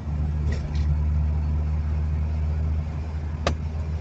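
VW Fox's 1.9i engine running steadily through its new exhaust: a low, even drone. A single sharp click about three and a half seconds in.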